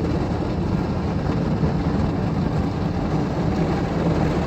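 PDQ Tandem automatic car wash machine running as its brush unit travels toward the back of the car: a steady low rumble with no distinct knocks or breaks.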